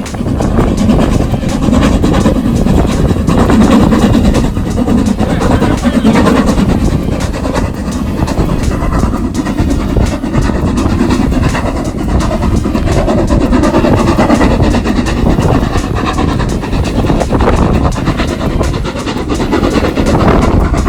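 A train running past with a loud, steady rumble and the clickety-clack of its wheels on the rails.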